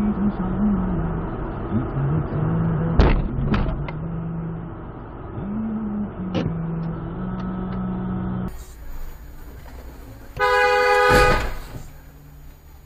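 Vehicle engine and road hum heard from a dashcam, with a few sharp knocks. After a cut comes a loud car horn blast lasting about a second and a half, near the end.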